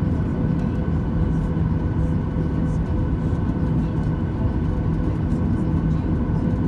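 Boeing 737-800 cabin noise from a passenger seat: the CFM56-7B turbofans and airflow make a steady rumbling roar, with a few steady tones running through it. It holds the same level without rising or falling.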